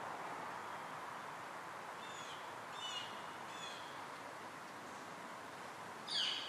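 A few short, high bird chirps about two to four seconds in, then one louder chirp that falls in pitch near the end, over a steady outdoor background hiss.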